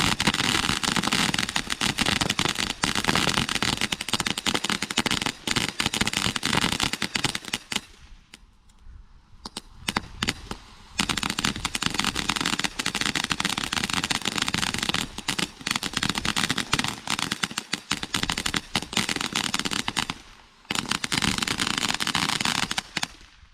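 Consumer fireworks going off in rapid, dense crackling runs of many small cracks. There is a sparser spell about eight seconds in, another run, a brief pause near the end, and a last short run.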